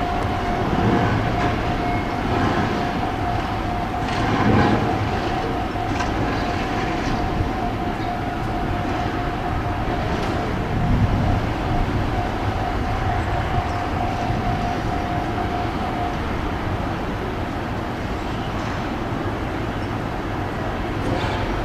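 Railway train noise heard from a station platform, with a steady high hum that stops about sixteen seconds in.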